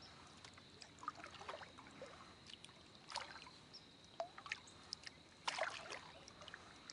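Kayak paddle blades dipping into and pulling through river water: faint, irregular splashing strokes every second or two, with the loudest stroke about two-thirds of the way through.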